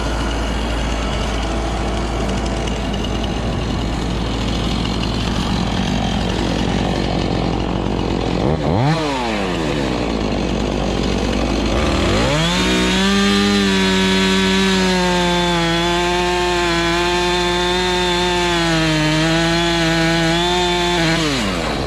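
Kubota tractor's diesel engine idling, then a chainsaw revved once briefly about nine seconds in. From about twelve seconds the chainsaw runs at full throttle cutting a hardwood log, its pitch wavering slightly under load, and drops back just before the end.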